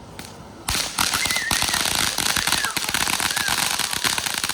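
A ground firework going off in a rapid, dense run of crackling pops that starts suddenly under a second in and keeps going.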